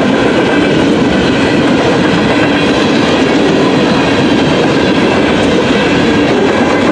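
Freight train of open-top gondola cars rolling past close by: a steady, loud rumble and rattle of steel wheels on the rails.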